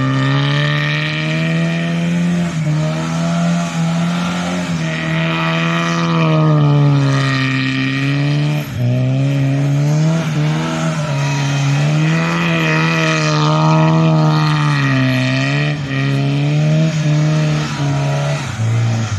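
Tofaş Doğan SLX's four-cylinder engine held at high revs, its pitch rising and falling in slow surges, as the car tries to drive out of the snow it is stuck in.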